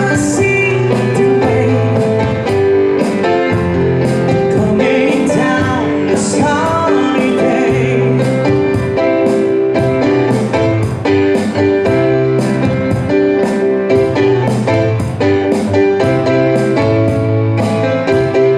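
An acoustic duo playing a country-rock song: guitar strummed in a steady, even rhythm, with a singing voice over it at the start and again a few seconds in.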